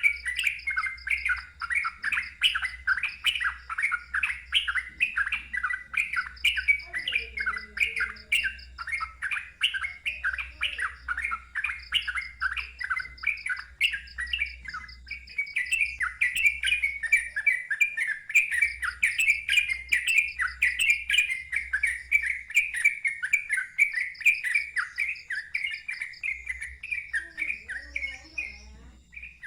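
Yellow-vented bulbul (trucukan) singing a fast, unbroken run of loud chirping notes, several a second, in the rapid 'ngeropel' style. A thin, high, rapid pulsing trill comes and goes above the song.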